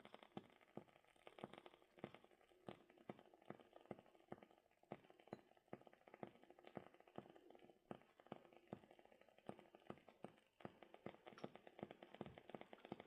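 Wood fire (bonfire) crackling faintly: irregular sharp snaps and pops, several a second, with no steady rhythm.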